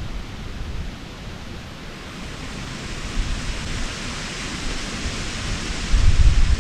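Wind rushing, a steady hiss that swells through the middle, with wind buffeting the microphone in low rumbles near the end.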